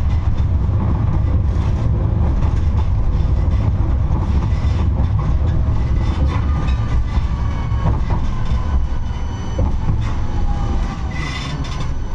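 71-628-02 tram running along the rails: a steady low rumble with scattered clicks from the wheels over rail joints. A faint whine falls slowly in pitch through the second half.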